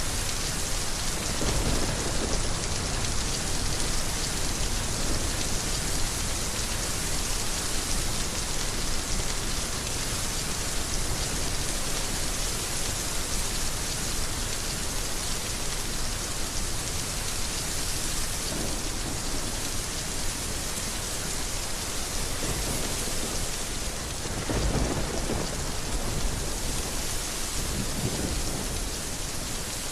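Heavy rain falling steadily, with a few low rumbles rising out of it, the strongest about twenty-five seconds in.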